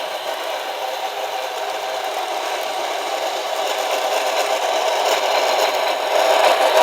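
Model PRR T1 steam locomotive running along the track in reverse on newly replaced traction tires. Its motor and wheels make a steady rattle that grows louder toward the end as it comes closer.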